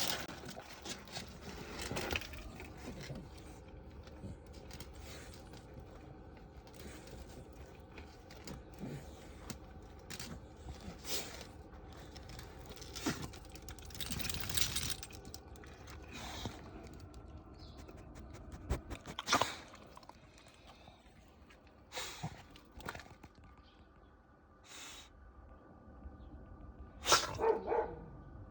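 A Shiba Inu moving about, with scattered short knocks and rustles and brief dog vocal sounds. The loudest is a short pitched cry near the end.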